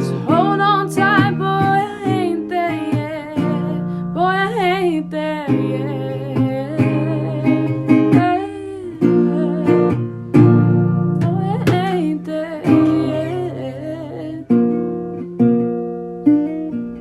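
Acoustic guitar playing chords under a singing voice that holds long, wavering notes.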